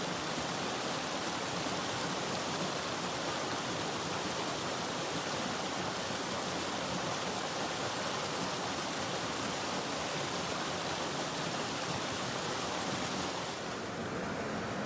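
Mountain stream rushing: a steady hiss of flowing water. About a second before the end it turns duller and slightly quieter.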